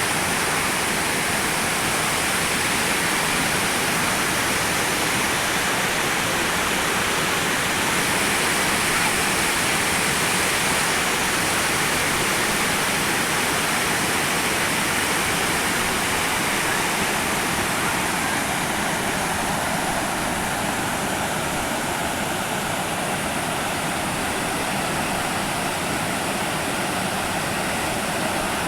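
Waterfall rushing steadily, slightly softer in the last third.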